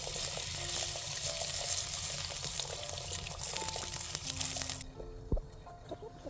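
Water running and splashing, which stops abruptly about five seconds in, over soft background music.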